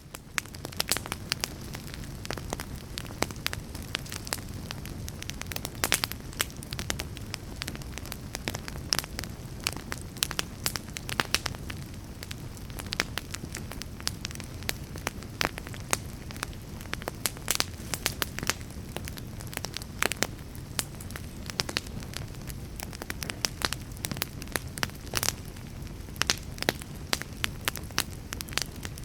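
Fire crackling: frequent sharp pops and snaps over a steady low rumble of flames.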